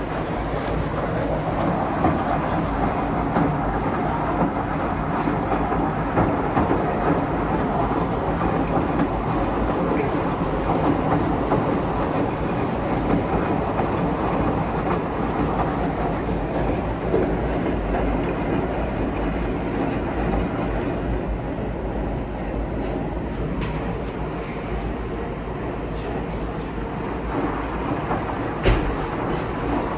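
Large coin-operated washing machine running: a steady rumble of the drum and motor, with a sharp knock near the end.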